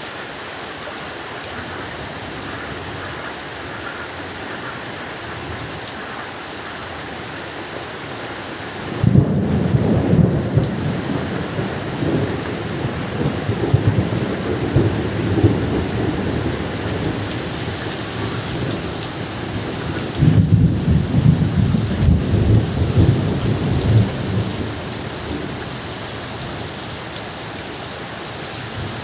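Steady rain falling, with thunder rumbling twice: a low rolling peal breaks in about a third of the way through and dies away over several seconds, and a second one follows later on.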